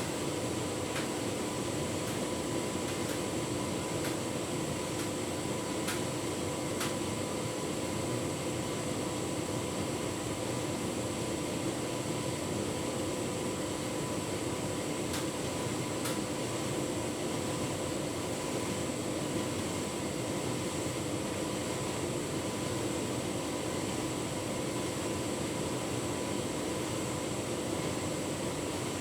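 Tumble dryer running steadily, its drum turning a full load of bedding: an even motor hum with a few steady tones, and light ticks about once a second for the first several seconds and twice more around halfway.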